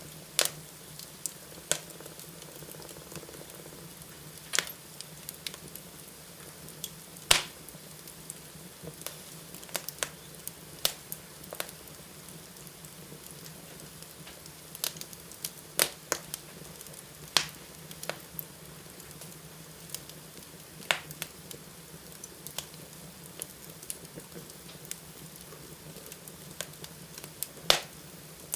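Fire burning in a fireplace, crackling with many sharp, irregular pops over a low steady hum; the loudest pops come about seven seconds in, twice around sixteen to seventeen seconds, and near the end.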